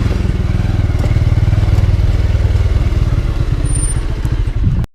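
Motorcycle engine running with a steady, rapid pulsing rumble, then cutting off suddenly near the end.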